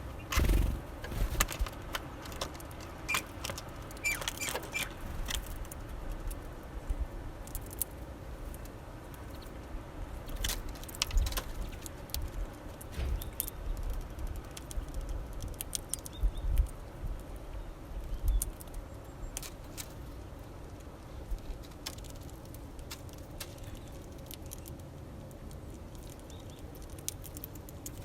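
Small winter birds at a feeder: irregular sharp taps and clicks of pecking and landing, with a few short high chirps about three to five seconds in and scattered low thumps.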